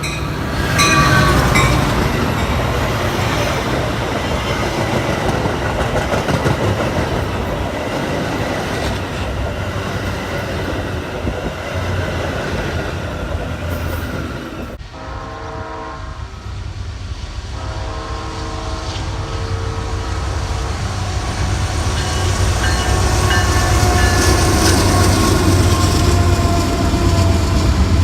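A train passing with its horn sounding and wheels clattering over the rails, under steady wind noise on the microphone. The sound breaks off abruptly about halfway through, and the horn sounds again soon after as the rumble builds up again.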